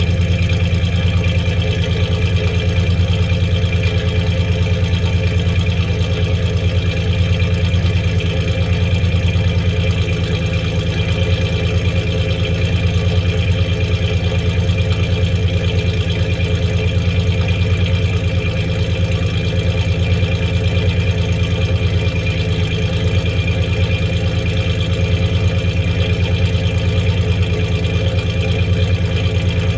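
1993 Ford Ranger's 3.0 V6 engine idling steadily with an even low pulse; the engine has a misfiring cylinder.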